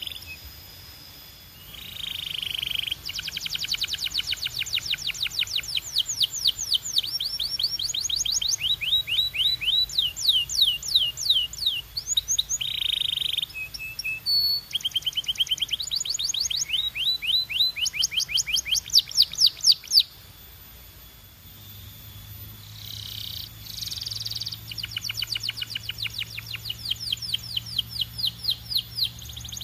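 Belgian canary singing long phrases of rapid trills, each made of quick repeated sweeping notes, with a short gap near the start and a longer pause about two-thirds of the way through.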